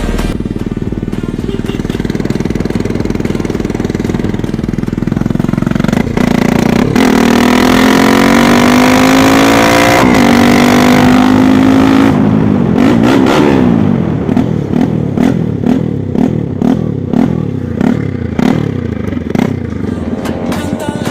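Bajaj Pulsar NS200's single-cylinder engine running with no exhaust fitted, so its open, unsilenced note is heard. It is revved up about six seconds in and held high with the pitch still climbing, falls back, then is blipped sharply about once a second.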